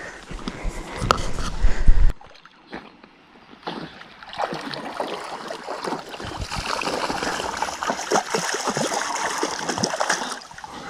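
Footsteps on a trail with low rumble, cut off abruptly about two seconds in; from about four seconds on, water splashing and trickling at a lake's edge, a steady hiss dotted with small splashes.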